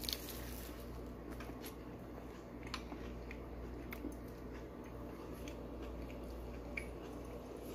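A person biting into and chewing a bacon cheeseburger, faint wet mouth clicks now and then over a steady low hum.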